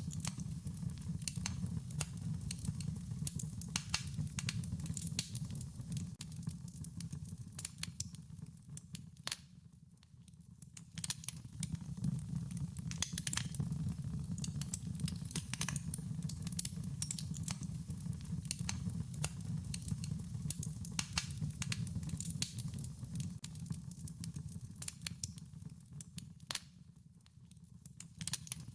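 Wood fire crackling, with frequent sharp pops and snaps over a low steady rumble. The crackling thins out and drops quieter twice, about ten seconds in and near the end.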